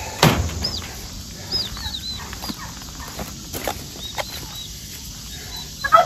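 Small birds peeping in short, high, scattered chirps. A sharp knock of the wire-mesh cage door comes about a quarter second in.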